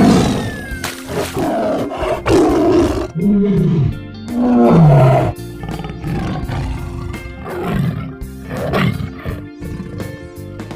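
Lion roaring and grunting in a series of calls, each falling in pitch, over light children's background music.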